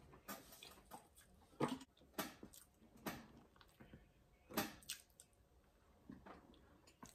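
Close, wet chewing of a full mouthful of food, with soft squishy mouth sounds and smacks coming in separate bursts a second or so apart.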